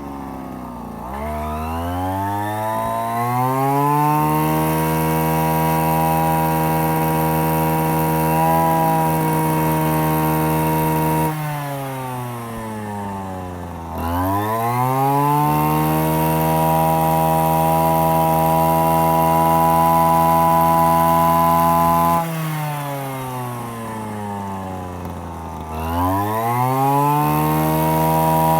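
Komatsu Zenoah BC225EX 21.7 cc two-stroke brush cutter engine revved from idle (about 2,800 rpm) up to full throttle (about 10,000 rpm) and held there. It drops back to idle twice, about 11 and 22 seconds in, and each time revs back up a couple of seconds later, the third time near the end.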